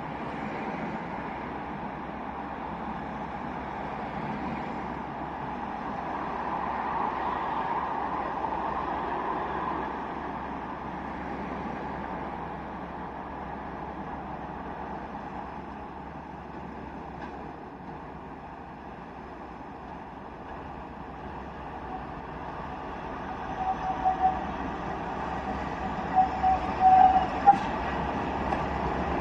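Approaching diesel test train with Class 43 power cars, a distant rumble that grows steadily louder over the last several seconds. Near the end come several short, high-pitched tones.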